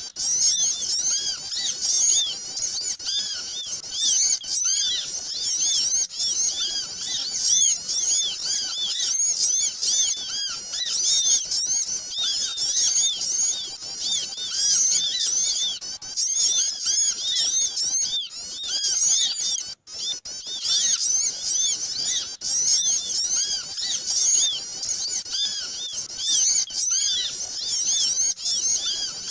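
Dense, noisy chattering of a flock of small songbirds: many short, high chirps overlapping without pause, the kind of bird-lure ('pikat') call used to draw small birds in. The sound drops out for a moment about twenty seconds in.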